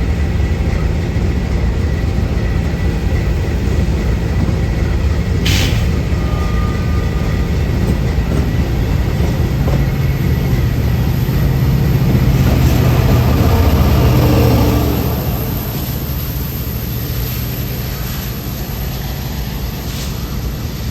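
Train passing with a steady low rumble. It swells briefly and then eases off about fifteen seconds in, with a single sharp click about five seconds in.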